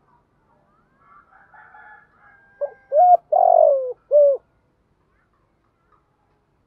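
Spotted dove cooing a decoy call: one phrase of four notes about two and a half seconds in, the third note the longest and sliding down at its end. Fainter thin sounds come just before it.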